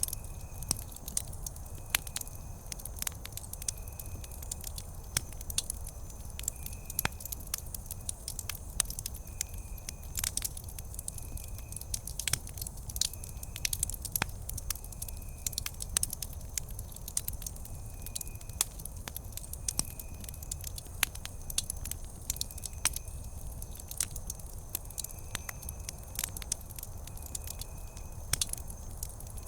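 Wood campfire crackling, with frequent irregular sharp pops over a steady low rumble of the flames. Behind it a faint high chirp repeats roughly once a second.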